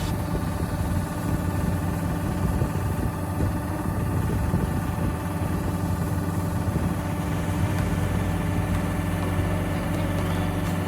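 Yanmar GC447V combine harvester's engine running at a steady speed, an even low hum.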